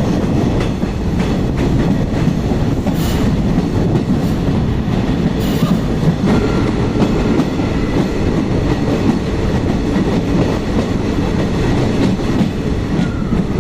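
Kollam Express passenger train running through a long tunnel, its wheels rumbling and clattering steadily on the rails. Faint wheel squeal comes through about six seconds in and again near the end.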